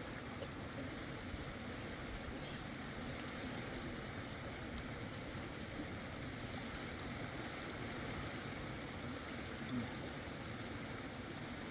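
Mountain river water flowing steadily, an even rushing sound.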